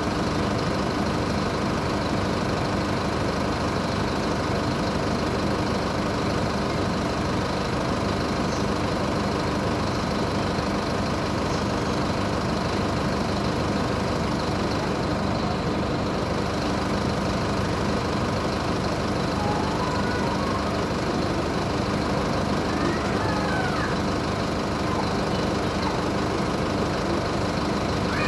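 Mercedes-Benz OF-1722 bus's diesel engine idling steadily while parked.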